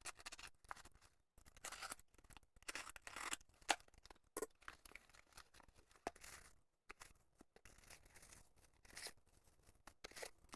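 A postal package being opened by hand: faint, broken-up snips, scrapes and tearing of tape and packaging in short bursts.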